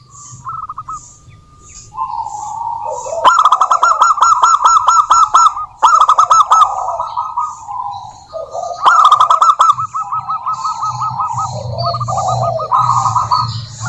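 Female zebra dove cooing in rapid, stuttering trills of short notes. There are several bouts, the loudest starting about three, six and nine seconds in, with softer calls between them.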